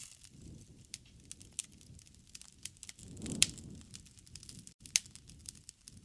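Wood campfire crackling, with scattered sharp pops over a low rush of flame. The loudest pop comes just past halfway, with a brief swell of the flame noise, and another sharp snap follows about a second and a half later.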